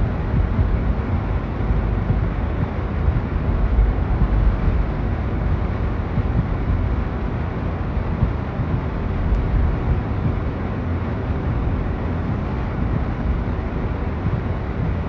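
Steady rumbling outdoor noise, heaviest in the low end and fluctuating, with no distinct events.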